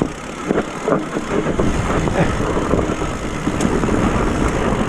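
Mountain bike rolling down a rough trail: a steady rush of tyre and riding noise with a few short knocks and rattles in the first second.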